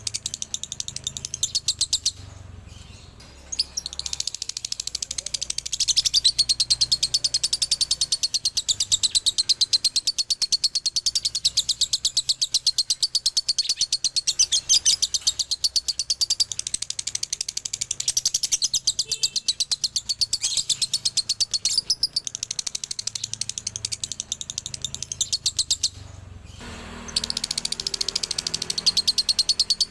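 Male lovebird chattering in long, very fast, high-pitched runs (the 'ngekek' call), broken by two short pauses, one a couple of seconds in and one near the end.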